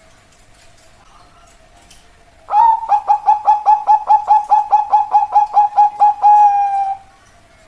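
Zebra dove (perkutut) singing one phrase about two and a half seconds in: a fast run of short coos, about five a second, ending in a longer drawn-out coo that falls slightly.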